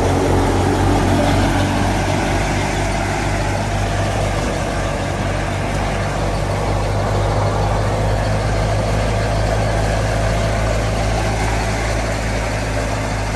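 Fiat 480 tractor's diesel engine running at a steady speed while driving a wheat thresher, a continuous low drone under a dense mechanical rush with no pauses.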